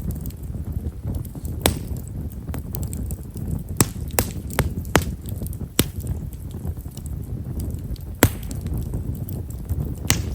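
Bonfire of himeshara (Japanese stewartia) firewood burning over a low steady rumble, with sharp, fine crackling pops: about eight scattered through, several in quick succession in the middle.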